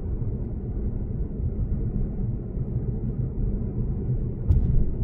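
Steady low road and tyre rumble of a Lexus GS450h cruising at expressway speed, with one sharp thump about four and a half seconds in.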